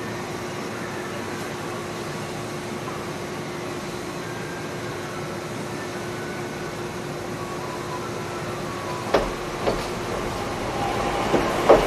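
Electric commuter train rolling slowly: a steady hum with a faint held tone, then from about nine seconds in a few sharp clacks of the wheels over rail joints, more of them near the end.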